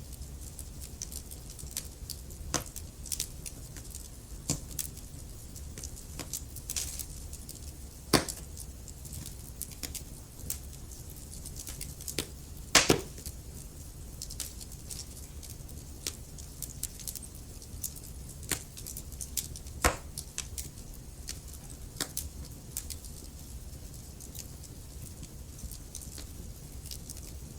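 Wood logs burning in a fireplace, crackling with irregular sharp snaps and pops over a low, steady rumble. A few pops stand out louder: one about eight seconds in, a quick double pop around thirteen seconds, and another near twenty seconds.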